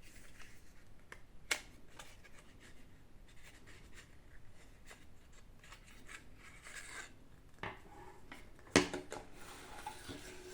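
Small objects handled on a surface: light rustling and small clicks, with two sharper knocks, one about a second and a half in and a louder one near the end.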